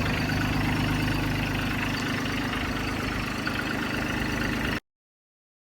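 Bad Boy 3026 compact tractor's 25-horsepower engine idling steadily. The sound cuts off abruptly near the end.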